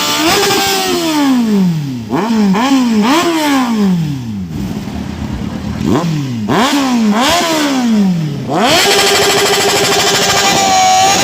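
Sport motorcycle engine being revved in repeated quick throttle blips, each rise in pitch followed by a slower fall back down. Near the end the engine is held at a steady high rev.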